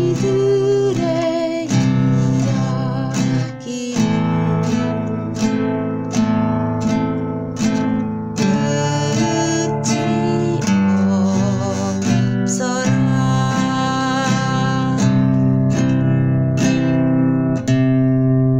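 Acoustic guitar strummed in chords, with a voice singing along.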